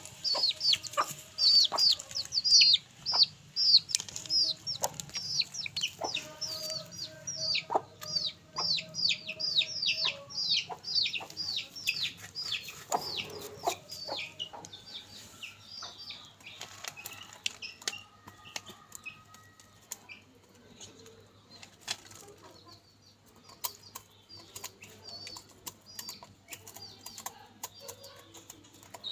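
Chicks peeping: a fast run of short, high, falling peeps, about three a second, that thins out about halfway through, with scattered sharp knocks and taps mixed in.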